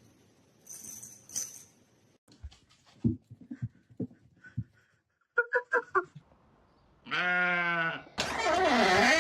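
A few soft knocks and short pips, then two drawn-out animal cries: a steady one of about a second, then a louder, longer one whose pitch wavers up and down.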